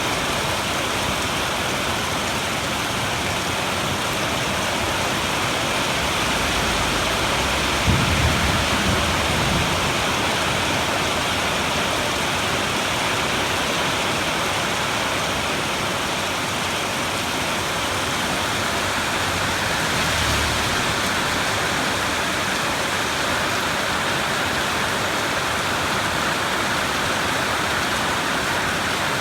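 Steady heavy rain hissing throughout a thunderstorm, with a low rumble of thunder about eight seconds in and a fainter rumble around twenty seconds in.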